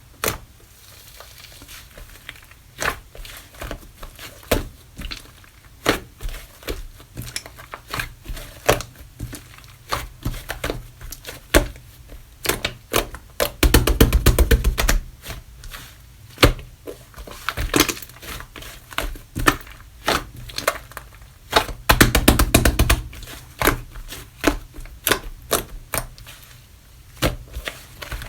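Slime being squished and pressed by hand, giving a string of sticky clicks and pops. Twice, about halfway through and again some eight seconds later, a longer run of rapid crackling pops comes as air bubbles burst in the slime.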